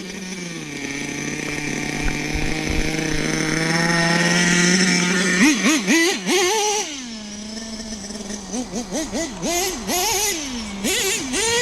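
AE Pro .21 nitro engine in a Mini MGT 3.0 RC monster truck holding a steady high note for about five seconds. It is then revved in quick bursts, its pitch jumping up and falling back again and again.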